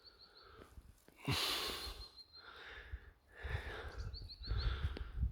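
A person's loud breath near the microphone, then low rumble and thuds from walking or handling. A small bird calls three times, each a quick run of four or five high, rising notes.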